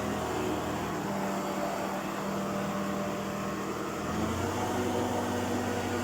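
Crane's engine running steadily under load, a low hum with a faint whine above it, picking up a little about four seconds in.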